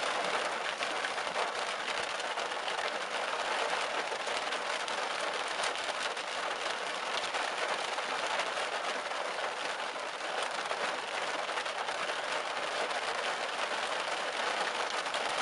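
Heavy thunderstorm rain falling steadily in a dense, even patter.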